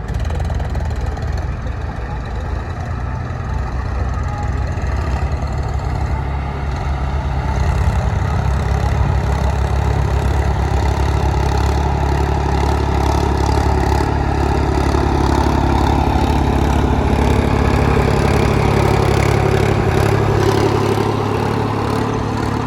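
Tractor diesel engine running steadily, a little louder from about eight seconds in.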